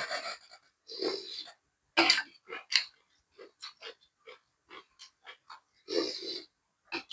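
A person eating close to the microphone, chewing a mouthful of chicken larb. There are a few louder mouth noises now and then, with softer chewing strokes about three a second in between.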